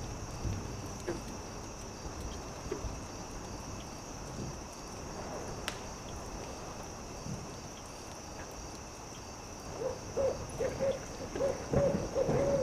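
A campfire crackling with scattered sharp pops over a steady high hiss. From about ten seconds in, an owl hoots in a quick run of short notes, the loudest sound here.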